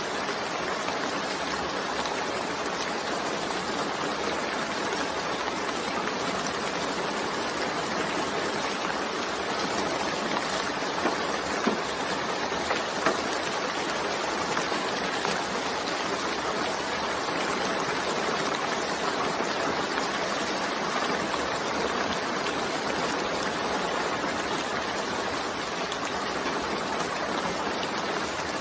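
Steady rain falling: an even hiss of many drops, with a few louder single drops near the middle.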